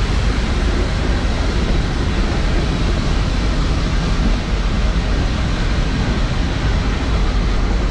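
Nilgiri Mountain Railway toy train running along the track, heard from an open coach window: a steady, loud rumble and rush of noise.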